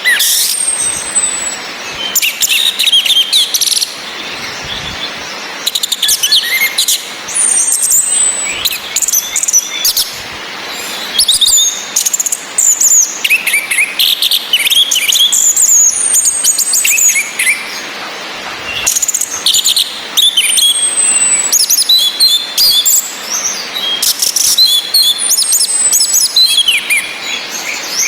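Orange-headed thrushes: a thin, high whistle sliding down in pitch, repeated every few seconds, which the uploader gives as the female's calling whistle, among bursts of rich, varied male song. A steady hiss of rain runs underneath.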